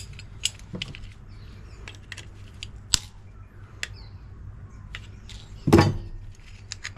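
Scattered sharp metallic clicks and knocks of tools and sheet-metal parts as the shroud around a dishwasher's heating element is taken off, with one heavier knock about six seconds in.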